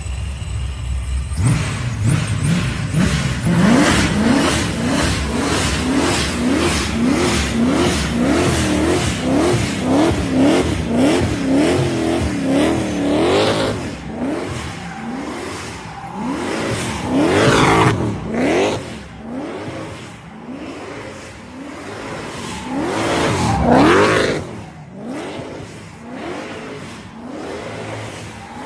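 ProCharger-supercharged small-block Chevy V8, stroked to 396, revving hard in a fast run of rising blips, about one and a half a second, for some twelve seconds. Then come two long revs high up, a few seconds apart.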